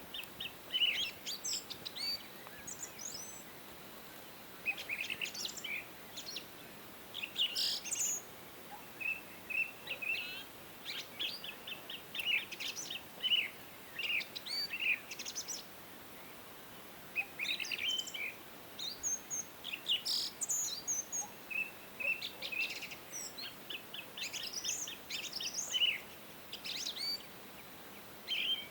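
Several songbirds chirping and singing: short high chirps, quick trills and sweeping notes come in overlapping bursts with brief lulls, over a faint steady background hiss.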